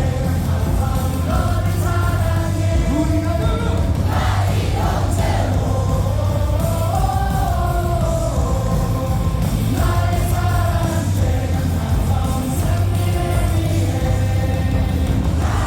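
Cheer song played loud over the baseball stadium's loudspeakers, with singing throughout and a steady heavy beat.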